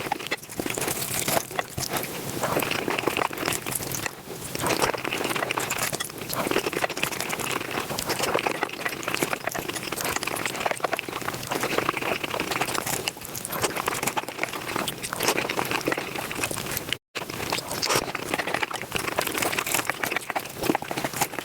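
Close-miked mukbang eating sounds sped up about fivefold: a dense, rapid run of crunching, chewing and crinkling, broken by a momentary cut to silence about 17 seconds in.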